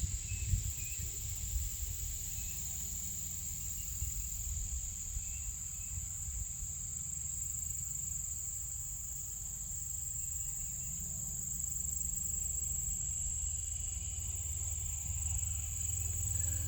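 A steady, unbroken high-pitched chorus of insects in the woodland and field, over a low rumble.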